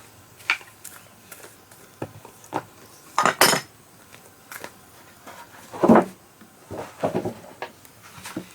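Irregular light knocks and clatters of hard objects being handled, about a dozen over the stretch, the loudest a little past three seconds and about six seconds in.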